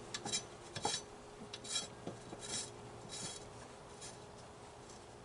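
Several short rasping scrapes of metal on metal, about one every three-quarters of a second, dying away after about three seconds.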